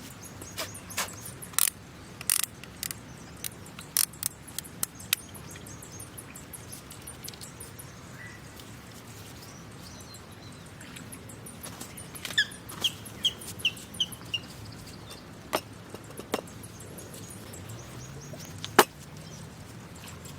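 Scattered sharp clicks and snaps, thickest in the first five seconds, with the loudest single snap near the end. About twelve seconds in, a bird calls a quick run of five short high notes.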